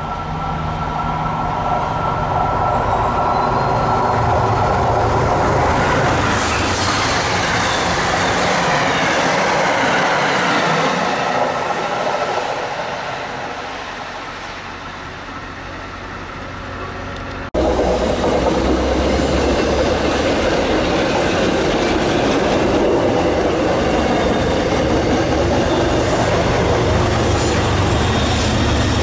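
A passing train's wheel-on-rail noise swells, then fades with a falling pitch. After a sudden cut about two-thirds of the way in, an MBTA commuter rail train of bilevel coaches runs past with steady wheel and rail noise.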